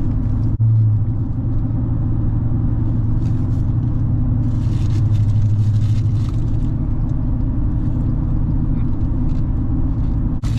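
Vehicle engine running steadily with a low, even rumble, heard from inside the cabin.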